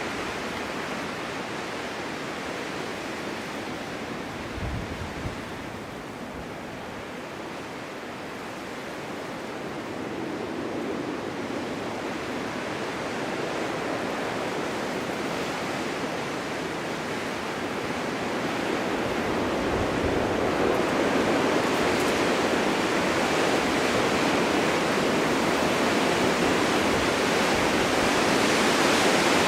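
Winter wind blowing steadily in a snowstorm, a continuous rushing that builds into a stronger gust over the second half.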